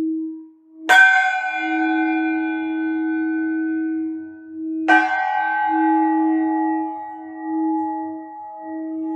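A singing bowl humming a steady low tone that swells and fades about once a second, as if being rimmed, with two bright bell-like strikes about a second in and about five seconds in, each ringing out and dying away over a few seconds.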